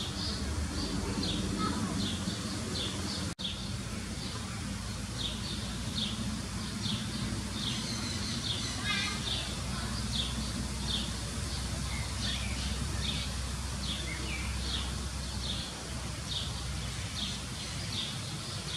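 A small bird chirping over and over, about two short high calls a second, above a low steady background rumble. About nine seconds in, a brief rapid rattle of ticks.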